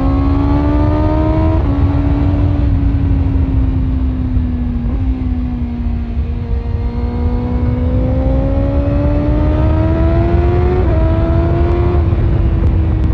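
BMW S1000RR inline-four engine running through an Akrapovic exhaust under steady throttle, its pitch climbing slowly with a few brief drops as it shifts up a gear. Heavy wind rumble runs underneath it.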